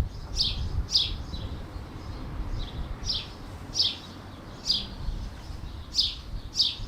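A small bird chirping repeatedly: short, high, falling chirps coming every half second to a second, over a low rumble.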